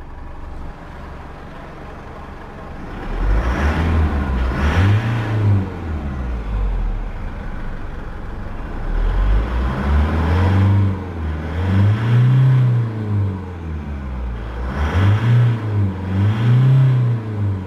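Isuzu D-Max's 2.5-litre twin-turbo diesel engine idling, then revved up and let fall back several times, with quick blips and one longer rev in the middle.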